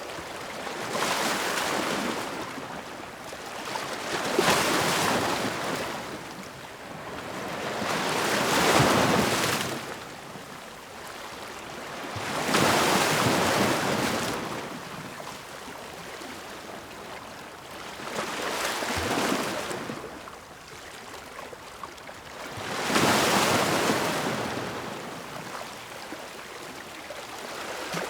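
Ocean waves breaking and washing onto shore, one surge about every four to five seconds, six in all, each swelling and fading away.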